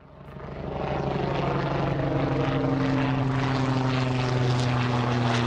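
Helicopter flying close by, its rotor and engine drone fading in over the first second and then holding steady and loud.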